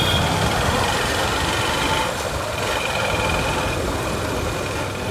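Motorcycle engine running steadily with street traffic noise, picked up by a phone's microphone.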